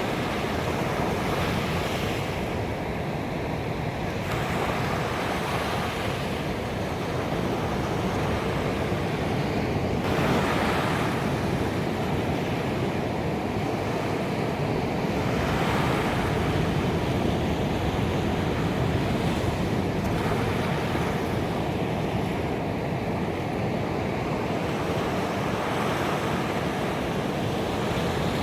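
Ocean surf breaking on a beach: a steady wash of water, with a wave surging louder about every five seconds.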